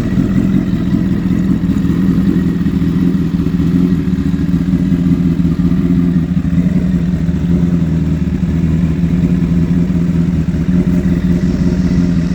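Honda CBR1000RR SC59's inline four-cylinder engine running steadily through a Dominator aftermarket exhaust, holding a constant speed without revving.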